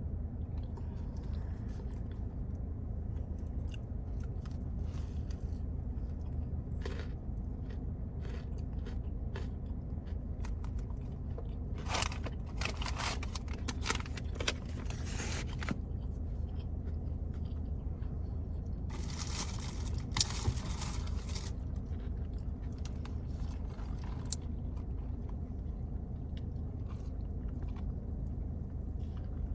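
Chewing and biting into a crispy fried chicken sandwich. Crunchy crackling bites come in a cluster about twelve seconds in and again a few seconds later, over a steady low hum.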